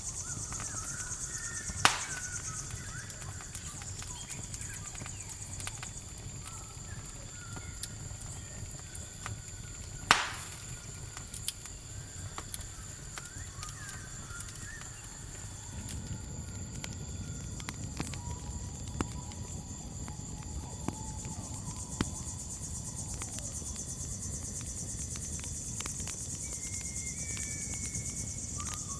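Campfire crackling with a steady chorus of crickets, scattered small ticks and two loud sharp pops, one about two seconds in and one about ten seconds in. A low rumble of the fire grows stronger about halfway through.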